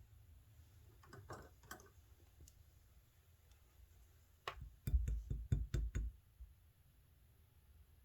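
Clear slime being pressed and played with by hand, making sticky clicks and pops. A few soft clicks come about a second in, then a quick run of six or seven louder pops between about four and a half and six seconds.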